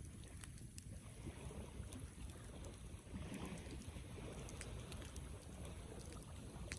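Wood campfire burning: scattered sharp crackles and pops over a low, steady rumble, with a brief swell of hissing about halfway through.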